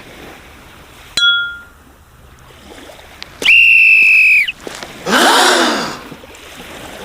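Sound effects: a short ding about a second in, then a steady high whistle blast lasting about a second, then a noisy burst with falling tones.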